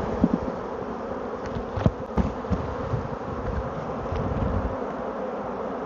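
Swarm of honeybees buzzing in a dense, steady drone, with a few short knocks.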